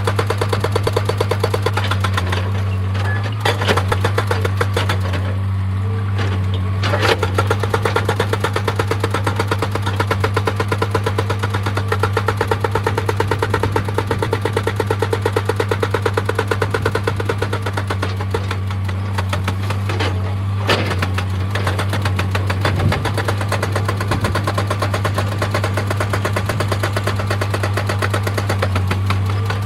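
Excavator-mounted hydraulic rock breaker hammering stone in a rapid, steady rhythm, over the steady drone of the machine's engine.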